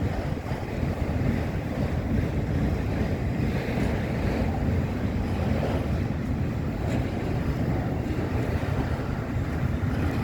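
Empty autorack car carriers of a freight train rolling past, a steady rumble of steel wheels on rail.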